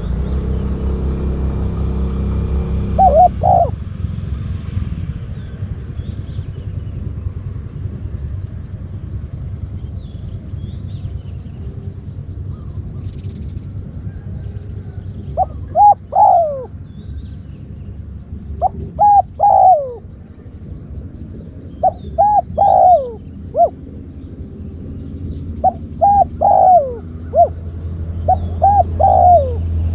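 Spotted dove cooing: about six phrases, each two or three short coos with a falling last note, spaced a few seconds apart. A steady low rumble runs underneath.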